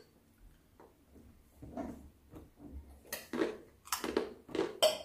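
Short, crisp crackles from crunchy ring-shaped snacks being handled and eaten, coming several times in quick succession in the second half.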